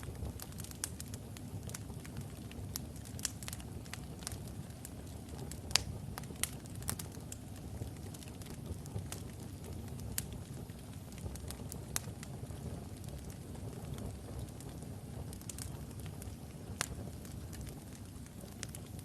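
Wood logs burning in a fireplace: a steady low rumble of flame with frequent sharp crackles and pops, the loudest pop about six seconds in.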